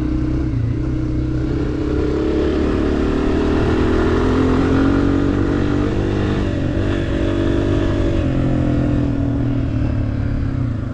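Honda CRF250F dirt bike's single-cylinder four-stroke engine running hard on a fast lap, its note rising and falling as the throttle opens and closes.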